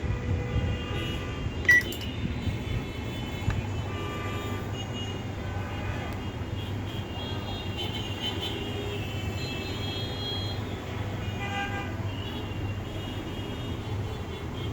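Street traffic with car horns tooting on and off over a steady low hum, and a single sharp click about two seconds in.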